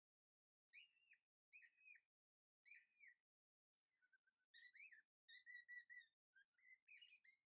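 Faint bird chirping: short phrases of whistled notes, some repeated quickly and some sliding, with pauses between phrases. The phrases come closer together after about four seconds.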